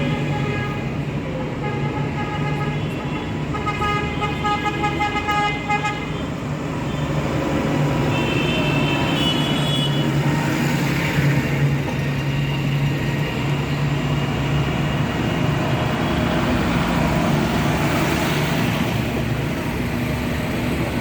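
Tractor engines running steadily as the procession goes by, with horns tooting: repeated short blasts in the first six seconds and another toot around eight to ten seconds in.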